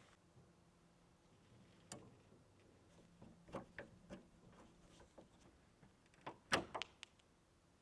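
Scattered light knocks and clicks of things being handled, loudest in a quick cluster of several about six and a half seconds in.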